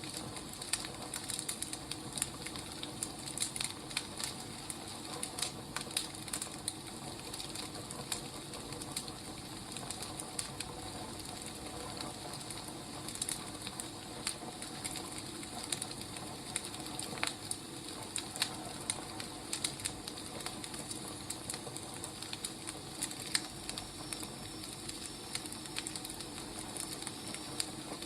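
Wood fire crackling: a steady low hiss broken by frequent irregular sharp pops and snaps.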